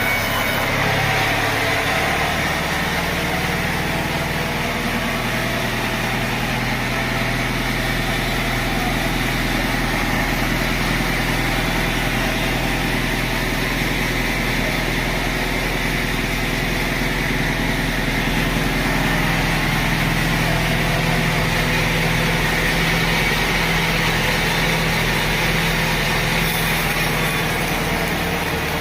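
Engine-driven sawmill machinery running steadily, a constant low hum with a steady hiss over it.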